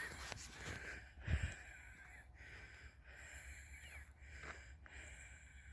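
Crows cawing repeatedly, with a single low thump on the microphone about a second in.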